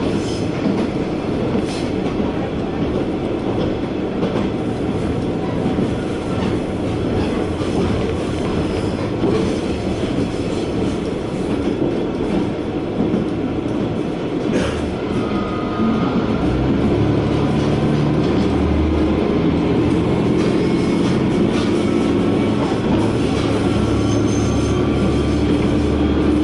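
KiHa 120 diesel railcar running along the line, heard from inside the car, wheels clattering over the rails. About two-thirds of the way through, a steady engine drone comes in and holds.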